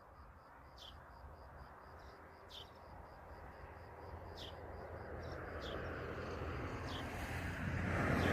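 Passenger train approaching, its rumble growing steadily louder. A few short bird chirps sound over it, and a high, evenly pulsing chirp fades out about halfway.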